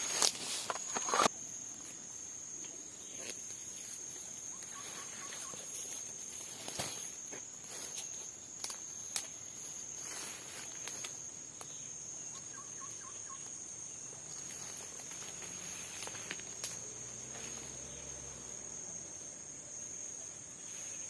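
Insects trilling in one steady high-pitched drone, with a few sharp knocks in the first second or so and occasional faint clicks after. A short run of faint chirps comes twice, about five and thirteen seconds in.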